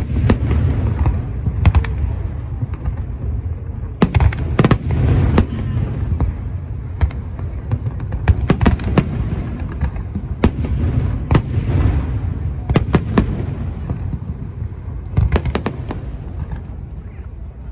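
Aerial fireworks going off in quick, irregular salvos: sharp bangs and booms over a continuous low rumble of echoing reports.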